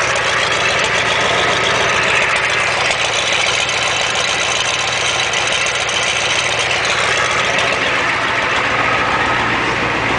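1987 Ford F250's 6.9L IDI International V8 diesel idling steadily, straight-piped because the exhaust is shot, shortly after a cold start.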